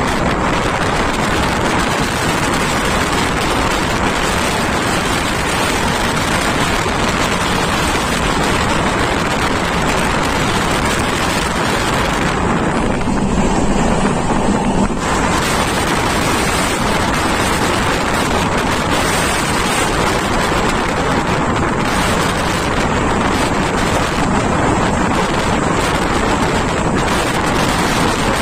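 Steady rushing noise of a moving train, with wind on the microphone mixed with wheel and track noise. About halfway through, the hiss dips for a couple of seconds.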